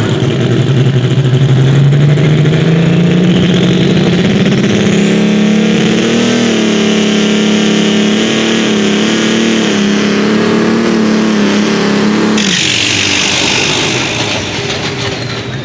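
Super stock pulling tractor's turbocharged diesel engine at full throttle under load, its pitch climbing over the first six seconds and then holding, with a high turbo whine above it. About twelve seconds in the engine drops off sharply as the run ends, a burst of hiss follows, and the sound fades.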